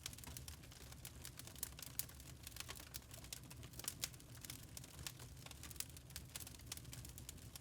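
Wood fire in a fireplace crackling: many small irregular snaps and pops over a low steady rumble of the flames.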